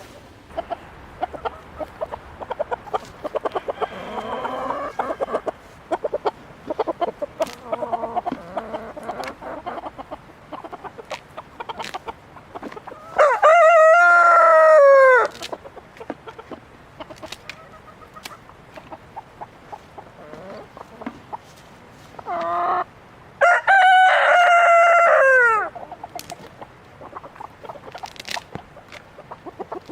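A rooster crows twice, each crow about two seconds long and falling in pitch at the end, the second led by a short note. Between the crows hens cluck softly, with scattered sharp clicks.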